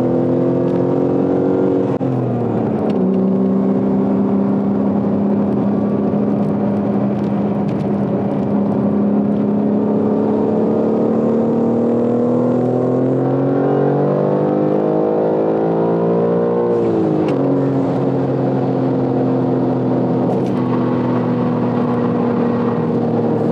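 BMW G80 M3's twin-turbo inline-six pulling under acceleration through a manual gearbox, its pitch dropping sharply at two upshifts, about two seconds in and again near seventeen seconds, with a slow climb in revs in between and a steady cruise after the second shift.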